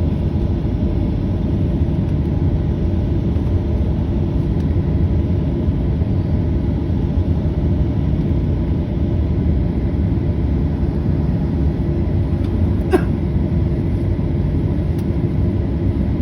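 Airbus A320 jet engines during takeoff, a loud, steady low rumble. A single brief click about 13 seconds in.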